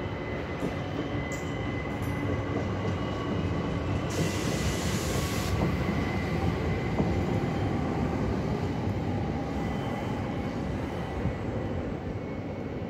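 Red-and-white electric multiple-unit train rolling through the station: a steady rumble of wheels on the rails with a thin whine above it. A burst of hiss comes about four seconds in and stops about a second and a half later.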